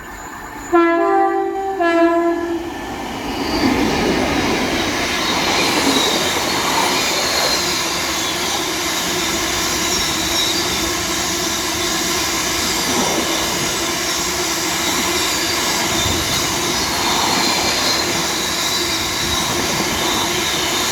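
Class 60 diesel locomotive sounds its horn briefly about a second in, stepping between notes, then runs through hauling a Freightliner train of freight wagons, with a steady engine note and continuous wheel and rail noise.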